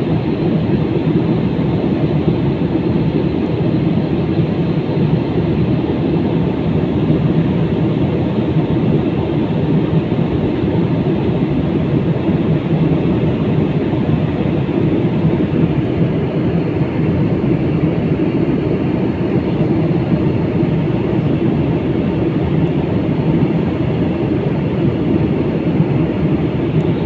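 Steady engine and airflow rumble heard inside the cabin of an Airbus A320 jet airliner in flight, loud and unchanging.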